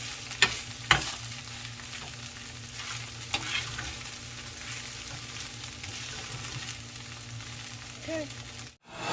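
Ground beef, rice and bread sizzling in a frying pan as it is stirred, with a few sharp clicks along the way. The sound cuts off suddenly near the end.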